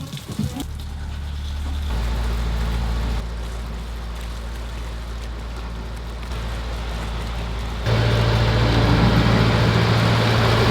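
Narrowboat engine running steadily under way, its low hum stepping louder or quieter a few times, most sharply about eight seconds in.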